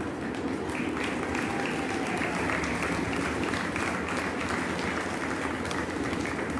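Grandstand crowd applauding steadily, a dense patter of many hands clapping.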